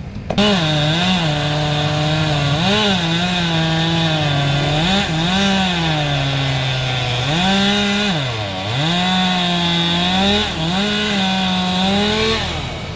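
Chainsaw running under load, cutting into a tree trunk. Its engine pitch sags and recovers again and again as the chain bites, dropping lowest about eight seconds in and letting off near the end.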